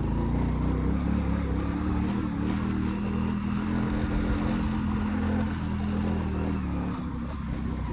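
Motorbike engine running steadily while riding, its pitch holding with small changes and easing off slightly near the end.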